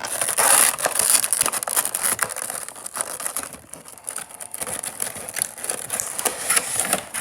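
Plastic packaging of a Funko Pop box crinkling and crackling in a dense, irregular run as the figure is worked out of it.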